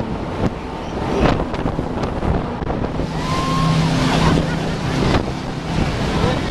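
Boat engine running steadily under the rush of wind on the microphone and splashing water. The wind and water hiss grows louder about three seconds in, then eases.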